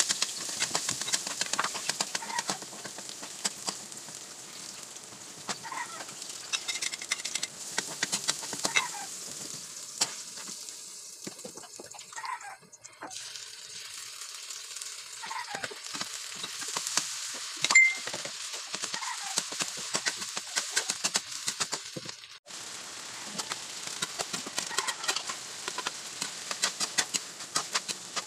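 Garlic, onion and meat frying in oil in a metal wok, with a steady sizzle and frequent clicks and scrapes from a metal ladle stirring against the pan. One short, loud, high-pitched sound comes about halfway through.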